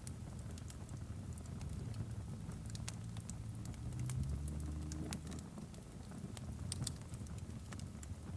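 Fireplace crackling, with irregular sharp pops and snaps over a low rumble.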